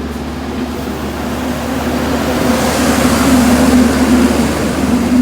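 Vehicle engine running steadily at an even pitch, getting louder from about two seconds in, with a rising hiss over it.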